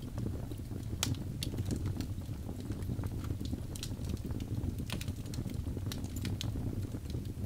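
Birch logs burning in a fireplace: sharp crackles and pops at irregular intervals over the low, steady rumble of the flames.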